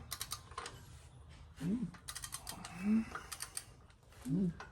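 Ratchet wrench clicking in repeated strokes as the engine is turned over by hand to watch the valves move, with three short low pitched sounds between the strokes.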